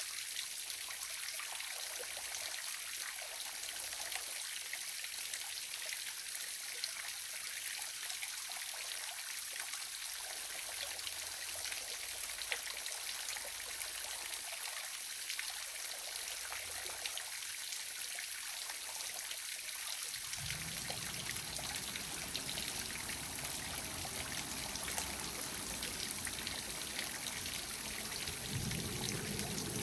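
Small waterfall: water splashing and trickling in a steady hiss. A low rumble joins it about two-thirds of the way through and grows a little stronger near the end.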